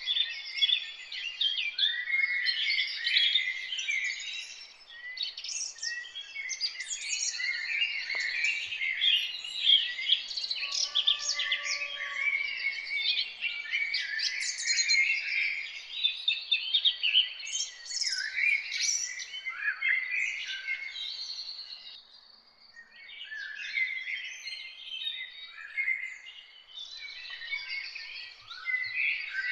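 A chorus of many songbirds chirping and singing together in dense, overlapping high calls, dropping to a brief lull about two-thirds of the way through.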